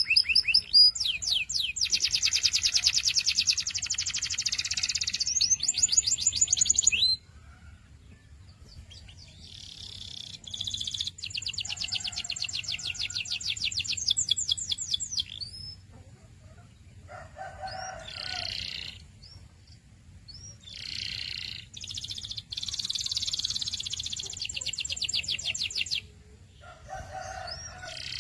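Canary singing: a loud, fast trill of rapidly repeated high notes that breaks off about seven seconds in, followed by quieter, shorter song phrases and trills with brief pauses between them.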